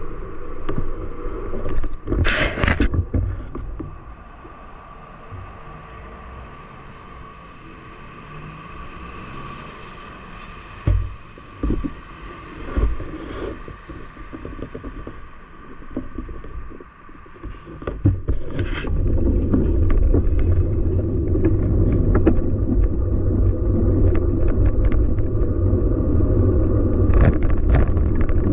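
City street noise with traffic rumble and a few sharp bursts. About two-thirds of the way in it turns to a loud, steady low rumble.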